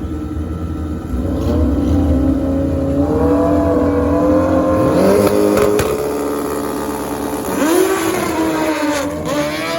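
Drag-racing motorcycle engines at full throttle during a run down the strip, the pitch climbing through the gears with a drop and recovery at a shift.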